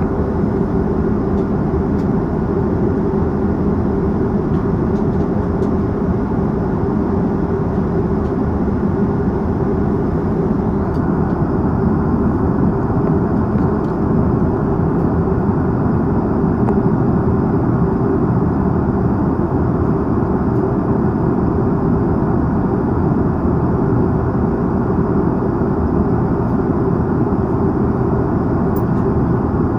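Airbus A330-300 cabin noise in flight: a steady rush of engine and airflow noise, even and unchanging.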